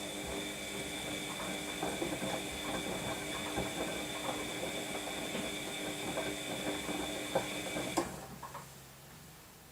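Washing machine drum turning during the wash cycle: a steady motor whine with irregular clicks and knocks from the tumbling load, stopping abruptly with a click about eight seconds in.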